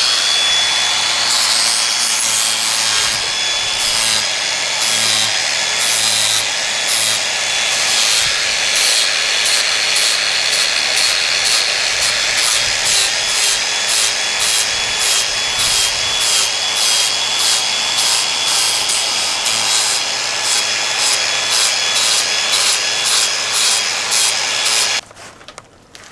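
An electric power tool working wood. It runs loudly and steadily for about 25 seconds, its motor whine dipping and wavering under load, and stops abruptly near the end.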